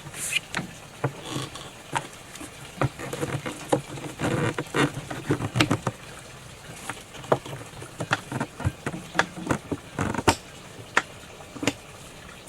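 Irregular clicks and knocks at an uneven pace, over a low steady background.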